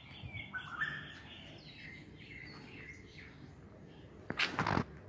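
Small birds chirping in short whistled notes that rise and fall. A brief, louder scuffing noise comes about four and a half seconds in.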